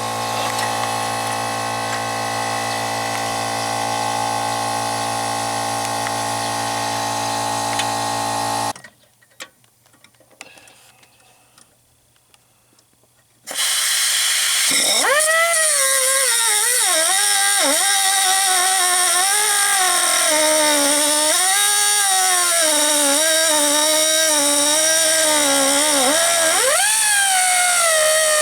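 Air-powered cutting tool running at a steady whine, then cutting off suddenly about nine seconds in. It starts again some five seconds later, and its pitch keeps dipping and recovering as it bites into a seized exhaust manifold stud.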